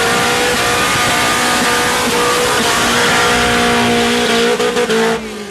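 A car doing a burnout at a car meet, its engine revved up and held at high revs while the tyres spin on the pavement. It lets off suddenly about five seconds in.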